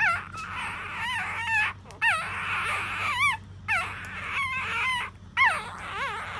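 Newborn puppies whimpering and squealing: a run of about ten short, high, wavering cries, one after another.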